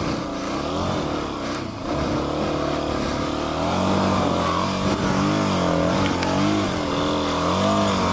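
Dual-sport motorcycle engine running under throttle, its revs rising and falling again and again, getting louder about three and a half seconds in.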